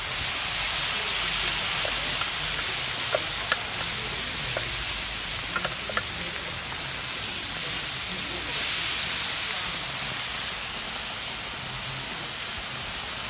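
Garlic and anchovies frying in hot oil in a disco (plough-disc pan), with a steady sizzle as they are stirred with a wooden spoon. A few small ticks come through around the middle.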